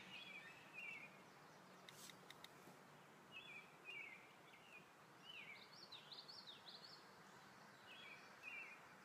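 Faint birdsong: short chirping phrases with quick falling and rising notes, repeated every second or two over steady background noise.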